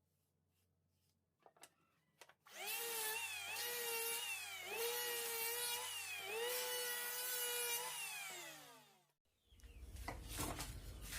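Small electric power tool working wood: the motor runs for about six seconds, its pitch dipping under load and recovering about four times, then it winds down as it is switched off. A few light clicks come before it starts.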